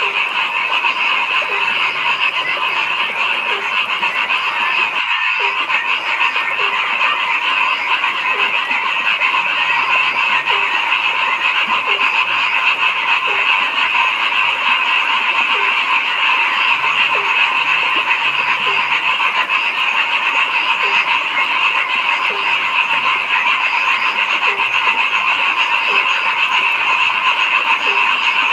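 A dense chorus of frogs calling steadily, with one lower call standing out and repeating at an even pace, a little more than once a second. There is a brief gap in the sound about five seconds in.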